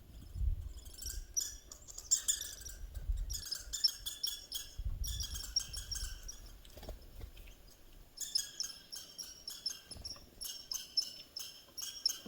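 Small birds chirping in rapid, high-pitched runs, four or five bursts of quick repeated notes with short pauses between.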